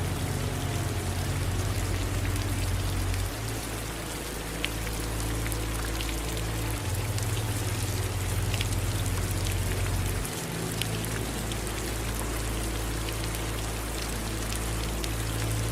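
Steady rain falling, a soft even hiss with scattered individual drops ticking, over a low rumble that shifts every few seconds.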